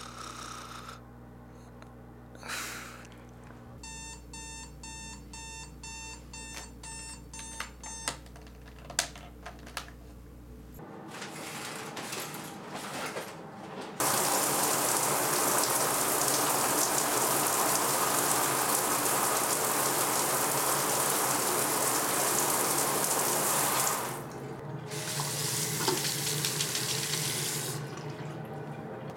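Electronic alarm beeping in quick evenly repeated beeps for about four seconds, followed by a few sharp clicks. Then water runs loudly from a tap for about ten seconds before dropping to a softer rushing noise.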